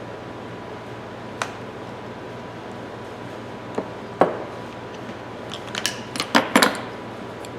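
Steel pipe wrench parts clicking and clinking against each other as they are handled during reassembly: a few single clicks, then a quick run of clinks about six seconds in.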